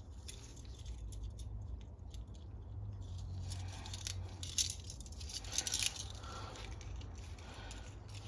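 Small clicks and light metallic rattles of carburetor parts and tools being handled, most of them between about three and six seconds in, over a low steady hum.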